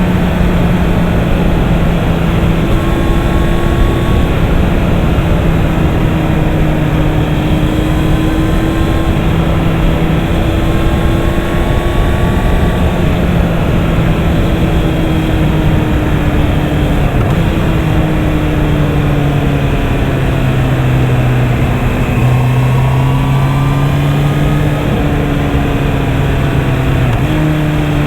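Honda CB650R's inline-four engine running at a steady cruise, its tone drifting up and down a little with throttle, under a heavy rush of wind noise.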